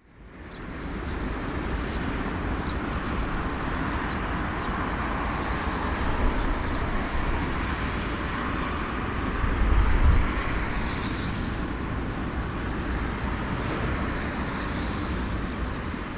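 Steady vehicle roar with a deep rumble, fading in over the first second and swelling briefly about ten seconds in.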